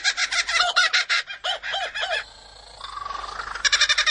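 Kookaburra laughing call mimicked by a superb lyrebird: fast, repeated cackling notes that drop away briefly about two seconds in, then start again near the end.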